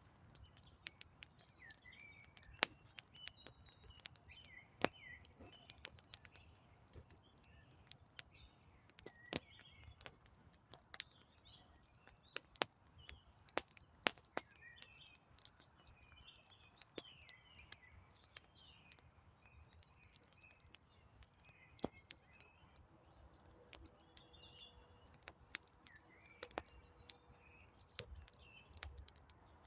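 Wood campfire crackling, with sharp irregular pops, while small birds chirp and twitter throughout.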